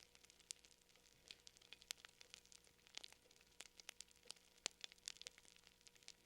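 Faint fire crackling: irregular small pops and snaps, several a second.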